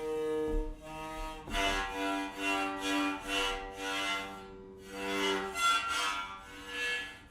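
Mamokhorong, a Basotho one-string bowed fiddle, being bowed in held notes that step between a few pitches.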